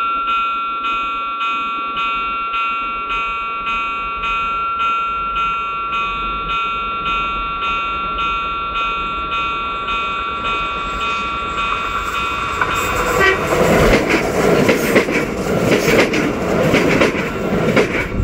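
A pulsing warning tone, beating about twice a second, from a railway signal or horn; about thirteen seconds in, the loud rumble and clatter of an approaching train builds up over it.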